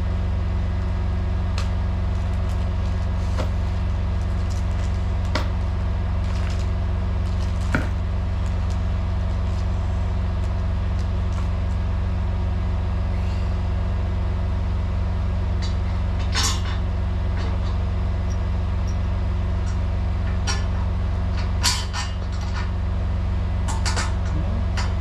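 Semi truck diesel engine idling steadily, with occasional clicks and knocks from work going on around it.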